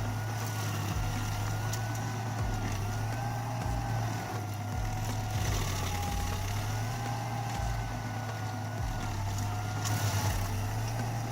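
Rayco RG80 stump grinder running at work: a steady low engine drone with a higher whine that slowly wavers up and down in pitch.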